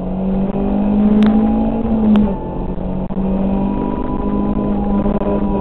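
Rally car engine heard from inside the cabin at full throttle, its pitch climbing, then dropping sharply about two seconds in at a gear change before pulling steadily again. Two sharp clicks sound during the first half.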